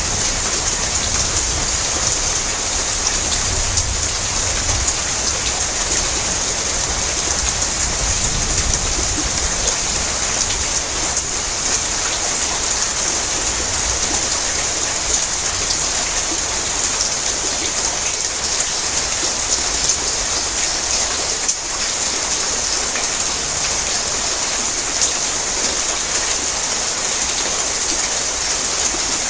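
Heavy rain drumming on a tin roof: a dense, steady patter of drops on the metal that doesn't let up.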